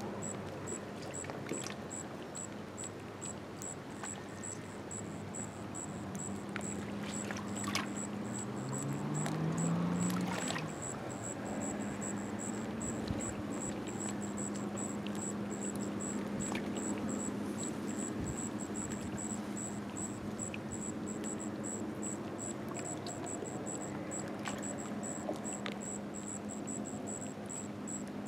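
Water lapping and trickling against a rocky shore, with an insect chirping steadily in a rapid, even, high-pitched rhythm. A low motor hum glides up in pitch about nine seconds in, then holds steady.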